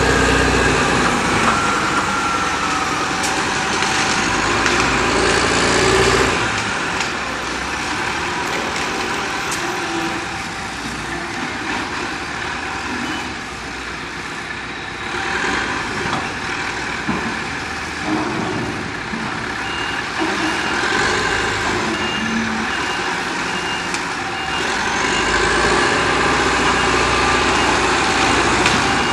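Diesel engines of a front-end loader and dump truck working, louder in the first few seconds and again near the end. A backup alarm beeps steadily for several seconds in the latter half.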